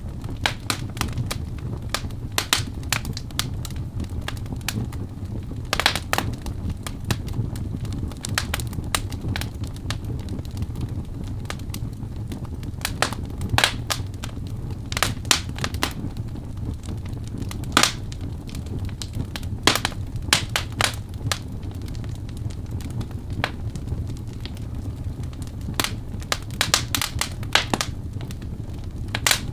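Wood fire burning: irregular sharp crackles and pops, some much louder than others, over a steady low rumble.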